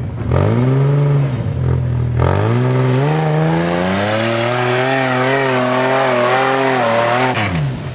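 Off-road 4x4 competition vehicle's engine revving hard. It climbs twice, is held high and steady for several seconds, then drops off sharply near the end.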